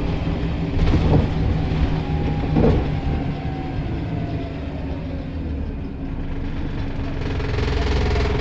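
Scania L94 bus's diesel engine running, with two brief loud noises about one and three seconds in, then its pitch falling slowly as the bus slows, settling into a steadier, stronger hum near the end.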